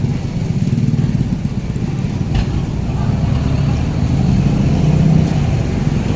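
Strong gusting wind buffeting the microphone: a loud, flickering low rumble that swells around five seconds in, with one brief knock a couple of seconds in.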